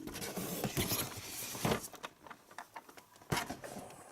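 Cardboard and plastic packaging rustling and scraping as the figure's inner tray is slid out of its box, with two sharp knocks, one midway and one near the end.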